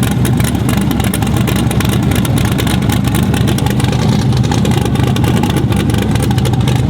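Race truck engine running loudly and steadily, a low drone with a rapid crackle over it.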